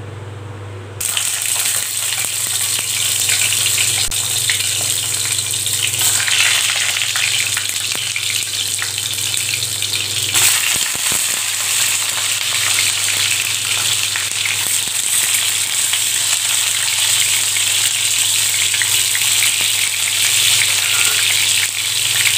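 Whole brinjals sizzling as they fry in hot sesame oil in a steel kadai, added one at a time. The sizzle starts suddenly about a second in and grows louder in steps, around six and ten seconds, as more brinjals go in.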